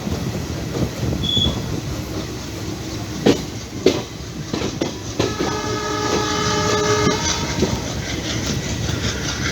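Passenger train running on the rails, heard from on board: a steady rumble with two sharp wheel clacks over rail joints about three seconds in. Then a locomotive horn sounds a steady chord of several tones for about two seconds.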